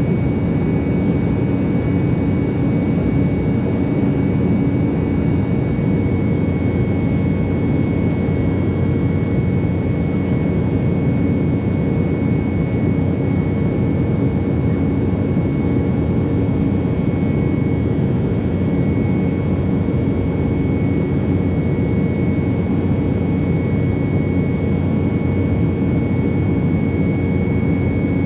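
Steady drone inside the cabin of an Embraer 190 airliner in flight: the rush of its two turbofan jet engines and airflow, with a steady high whine and lower hums that don't change.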